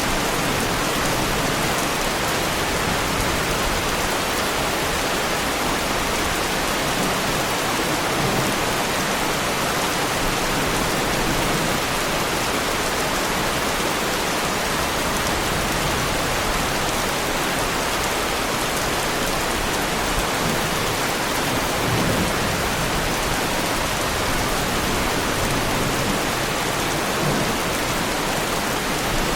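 Heavy rain falling steadily, a dense, even hiss that keeps up without let-up.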